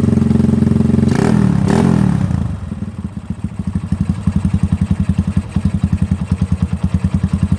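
A Yamaha Scorpio 225's single-cylinder four-stroke engine running through an Akrapovic exhaust, held at raised revs at first. Two sharp cracks come a little over a second in, then the revs drop and it settles into an evenly pulsing idle.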